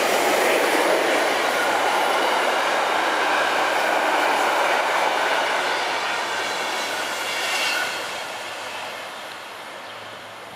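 SBB passenger train, an electric locomotive hauling intercity coaches, passing at speed: a loud, steady rush of wheels on the rails that drops off after about eight seconds and fades away.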